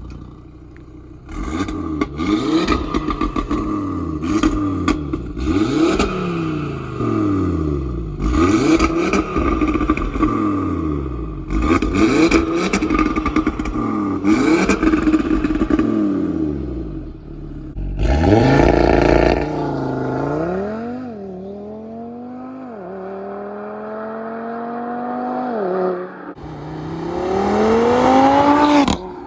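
Audi 2.5 TFSI turbocharged inline five-cylinder with an Integrated Engineering high-flow catted downpipe, blipped up and down about six times from idle. In the second half it pulls up through the gears, the pitch climbing and dropping sharply at each upshift.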